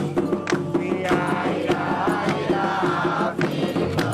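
Candomblé ritual music: steady, evenly repeated percussion strokes, with a chanting voice singing from about a second in until shortly before the end.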